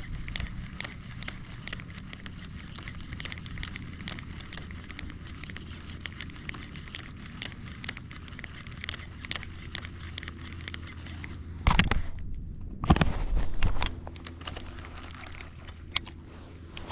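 Baitcasting fishing reel being cranked, a run of quick clicks as line is wound in over a low steady hum. Two louder bursts of rushing noise come about twelve and thirteen seconds in.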